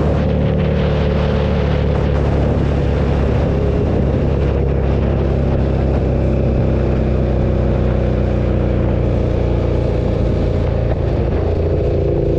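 KTM 1290 Super Duke's V-twin engine running at a steady, even speed under cruising throttle.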